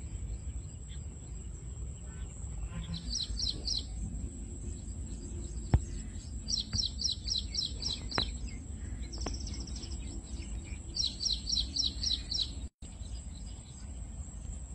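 A bird calling in quick runs of four to seven high chirps, repeated three or four times, over a low rumble. A few sharp clicks fall in between, the loudest about six seconds in.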